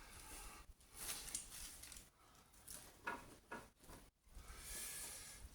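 Faint light knocks and rustling of hands and tools on the subframe, then a soft hiss of an aerosol penetrating-oil spray (WD-40) near the end.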